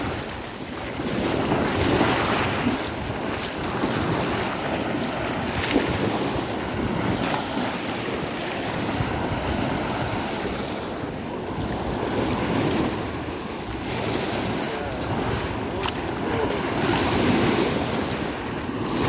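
Sea waves breaking and surging in the shallows right at the shoreline, swelling and easing every few seconds, with wind rumbling on the microphone.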